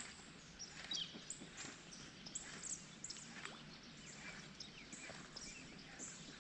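Faint, scattered bird chirps over a quiet, steady outdoor background.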